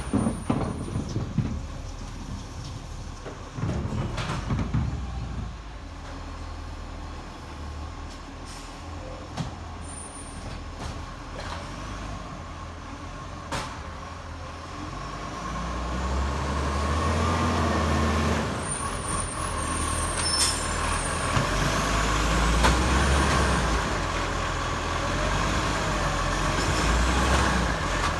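Garbage truck's diesel engine running, growing louder about halfway through, with a few sharp clicks or knocks.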